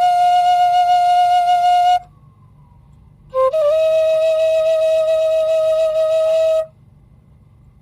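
Slow flute melody of long held notes: one note ends about two seconds in, and after a short pause a second, slightly lower note opens with a quick upward slide and is held for about three seconds.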